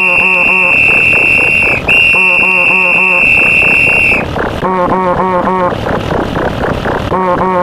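Stacked sound effects: a referee whistle gives two long, steady, high blasts that stop about four seconds in, over a fast, regular string of short synthesized-voice syllables.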